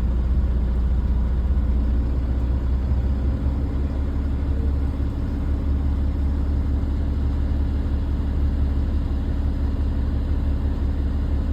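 Dump truck's diesel engine running steadily with a deep low rumble; a steady hum joins in about three seconds in.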